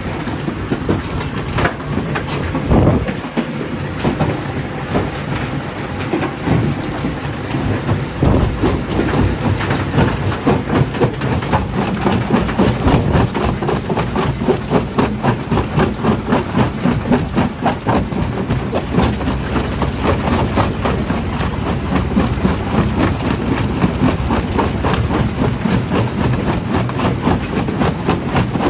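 Jaw crusher running under load, with a steady rapid clatter of knocks, a few a second, as stone is broken between the jaws.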